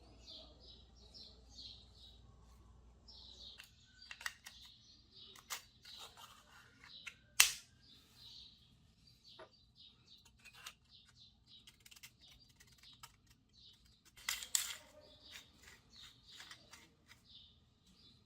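A small bird chirping in quick, repeated high notes throughout, with a few sharp clicks and knocks: the loudest a single click about seven seconds in, and a cluster of knocks around fourteen seconds in.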